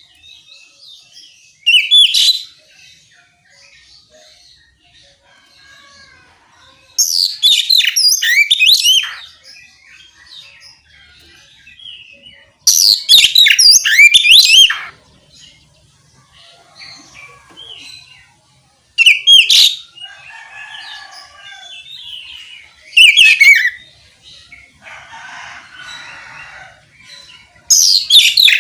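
Oriental magpie-robin (kacer) singing loud, clear phrases of fast warbling whistles. There are six phrases, each a second or two long, a few seconds apart, with softer chirps between them.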